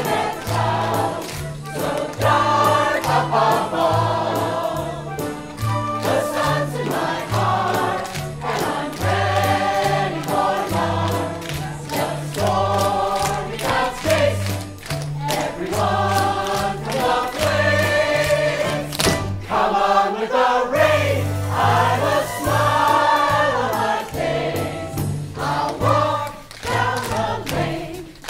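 A group of voices singing a musical-theatre number together over instrumental accompaniment, with a stepping bass line and a steady beat.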